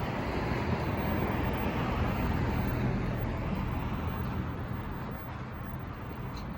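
A motor vehicle driving past on a city street: a low engine hum and tyre noise that swell to their loudest about two to three seconds in, then fade.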